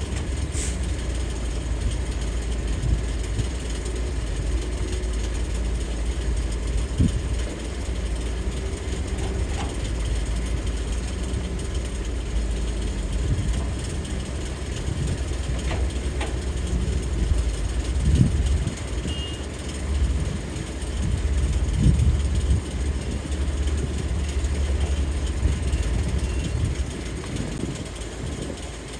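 Heavy diesel engines of an excavator loading a dump truck running steadily, with a few low thuds.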